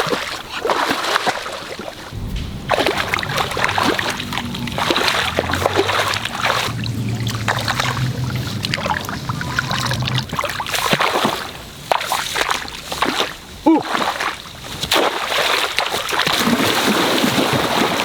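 Water splashing and sloshing in irregular bursts, with a low steady hum from about two to ten seconds in.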